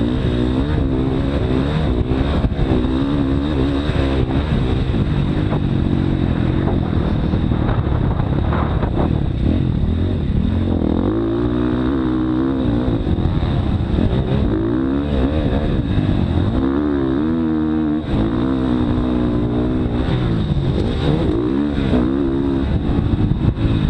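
Motocross bike engine running hard and continuously, its pitch repeatedly climbing and dropping back as the throttle is opened and closed.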